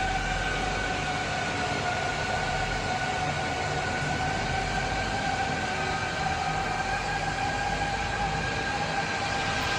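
Machinery running with a steady high whine over a constant rumbling noise, the whine wavering slightly in pitch.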